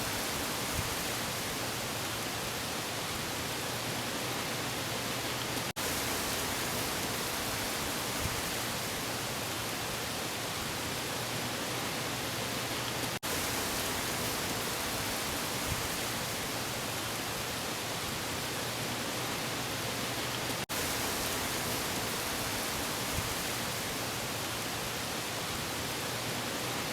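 Wind and waves on a windy day, heard as a steady, even rush of noise without distinct separate swells. It cuts out for an instant three times, about every seven and a half seconds.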